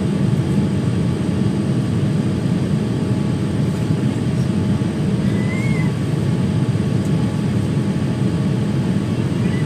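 Steady low rumble of a Boeing 787-9's engines and airflow heard inside the passenger cabin, with a faint short chirp about halfway through.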